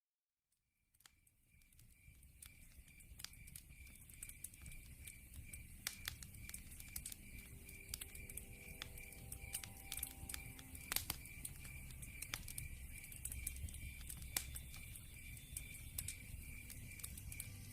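Log fire crackling, with irregular sharp pops over a low rumble, fading in after about a second of silence. A high, evenly pulsing chirp runs through it.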